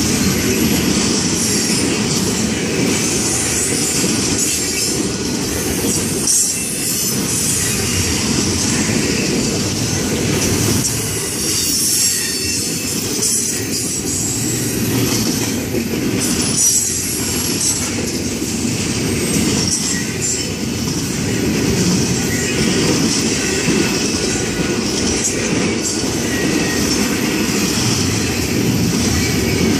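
Double-stack intermodal train's well cars rolling past at speed: a steady loud rumble of steel wheels on the rails, with a high-pitched hiss and squeal from the wheels.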